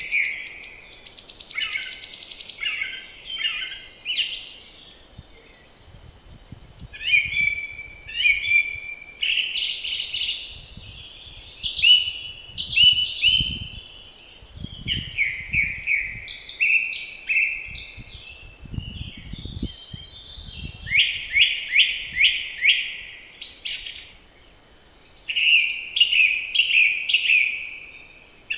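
Several songbirds singing in spring woodland, one trilled, repeated phrase after another. Low gusts of wind rumble now and then through the middle stretch.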